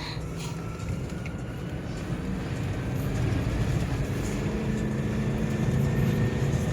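A car engine running as the vehicle drives over sand dunes: a steady drone that grows louder from about two seconds in.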